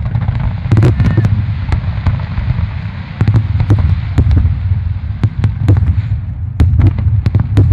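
Fireworks display barrage: aerial shells bursting in quick succession, a continuous deep booming with many sharp cracks, densest about a second in, around three to four seconds, and again near the end.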